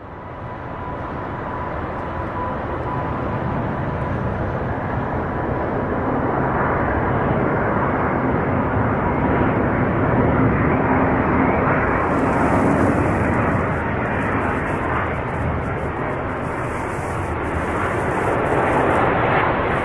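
Jet engines of an Airbus A350-900, Rolls-Royce Trent XWBs, running as a steady, loud rush of noise with a faint whine in it; it swells a little around the middle and again near the end.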